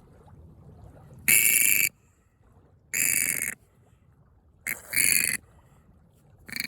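Western grebe, tangled in fishing line, giving loud, harsh calls: three calls about a second and a half apart, the third with a short note just before it, then a brief fourth call near the end.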